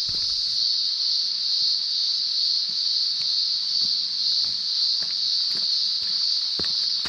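A loud, unbroken high-pitched drone from a chorus of summer cicadas.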